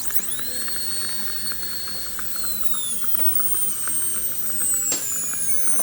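Dental handpiece spinning up into a high whine and running on, its pitch gradually sagging as the burr works against the composite bonding on a front tooth.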